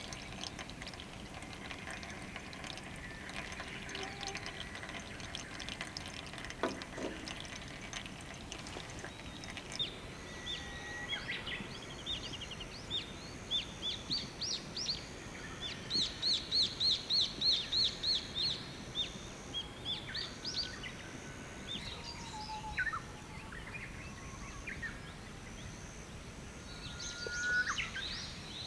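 Wild songbirds singing and calling over a steady background hiss. About halfway through, one bird gives a fast run of about ten clear repeated notes.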